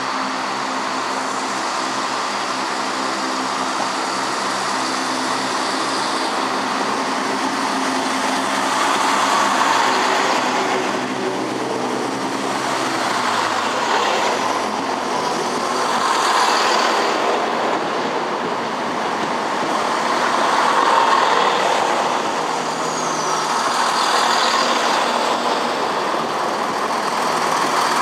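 A train moving along the tracks: a steady engine or traction motor hum of several pitched tones stops about halfway through, and rolling wheel noise follows, swelling and fading every few seconds as the carriages go by.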